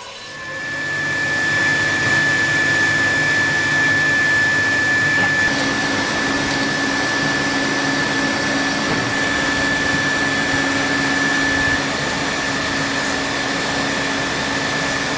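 Renault Energy F1 1.6-litre turbocharged V6 power unit running at a steady speed on a dynamometer test bench. A high whine sits over the engine note. The sound rises to full level in the first second or two.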